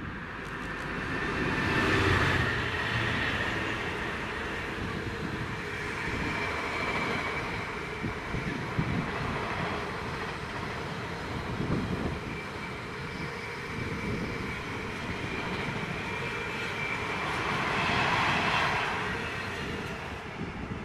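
Freight train running past on the line: a steady rumble and rail noise that swells louder about 2 seconds in and again near the end.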